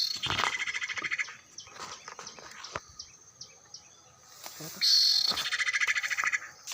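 A bird call sounding twice, about five seconds apart: each a sharp high note running straight into a fast chattering trill, with short high chirps in between.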